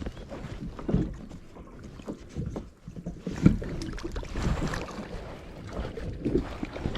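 Irregular knocks and thumps, typical of handling gear on a small boat, with a sharp knock about halfway through and a low, rumbling noise under them.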